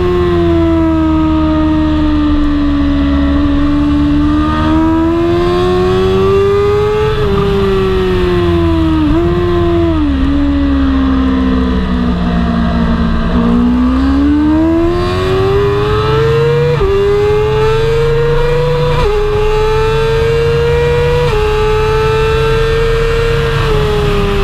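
BMW superbike engine at racing speed on track, its note climbing and falling as the rider works through the gears, with sudden pitch steps at the shifts. The engine drops in pitch from about 10 to 13 seconds in as the bike slows, then climbs again with several upshifts. Steady wind rush runs underneath.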